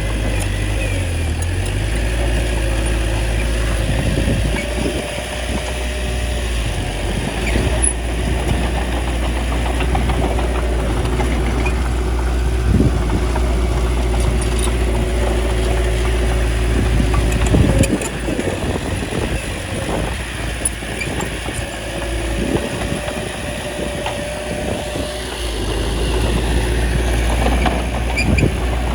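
Small bulldozer's diesel engine running steadily, with a few short clanks.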